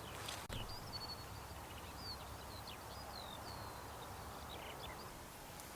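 Faint birdsong: a scattering of short whistled notes and chirps, some sliding down in pitch, over a quiet steady background hiss.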